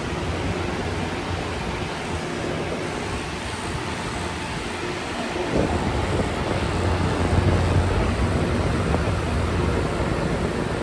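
Pelonis Elite heat pump running: a steady rushing noise with a low hum that grows louder from about halfway in.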